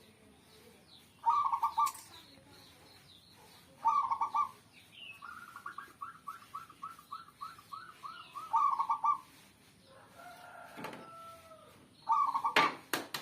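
Zebra dove (perkutut) cooing: short bursts of coos repeated every few seconds, with a run of quick notes at about four a second in the middle. A few sharp knocks come near the end.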